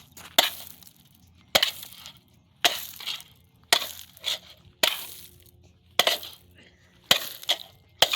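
A wooden log striking a ceiling fan again and again, about eight blows at roughly one a second, each a sharp crack followed by a short rattle as the fan and its blades are being broken apart.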